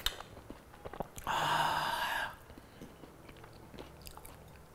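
A man chewing a soft mouthful of khichdi and fried egg with his mouth closed, with small wet mouth clicks and one breathy exhale lasting about a second near the middle.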